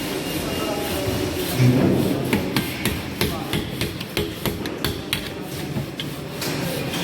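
A hammer tapping a metal clip onto a sheet-metal duct joint, a quick run of sharp knocks about three to four a second, closing the joint.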